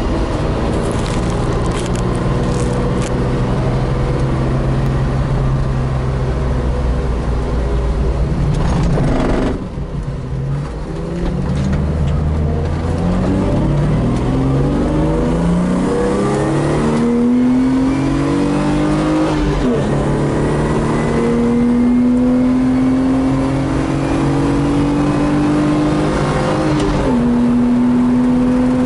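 BMW M50B25 2.5-litre straight-six heard from inside the E28's cabin under hard driving. It holds steady revs, lifts off briefly about a third of the way in, then pulls up through the revs, with sudden drops in pitch about two-thirds of the way in and again near the end, as at upshifts.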